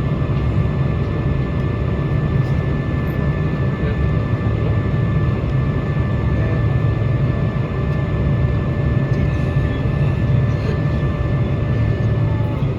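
Steady cabin noise inside a Boeing 747-400 during pushback: a low rumble with thin steady whining tones over it, two of which cut off near the end.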